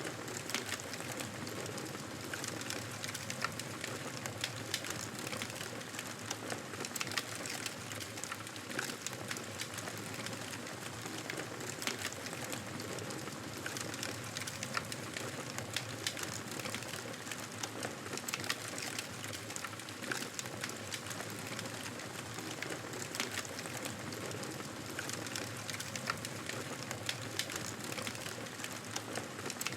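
Campfire burning, with a steady hiss and frequent irregular crackles and pops from the wood.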